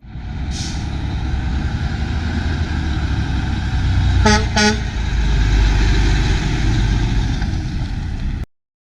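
Mack dump truck's diesel engine running with a heavy, steady rumble, a short hiss just after it starts, and two quick toots of the horn about halfway through; the sound cuts off suddenly near the end.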